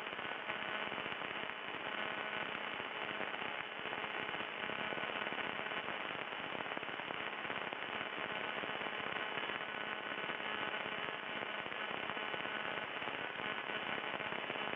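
Steady crackling static on the aircraft's radio and intercom audio between transmissions, a fizzing hiss full of fine clicks. It is the bad radio crackle that dogged this flight.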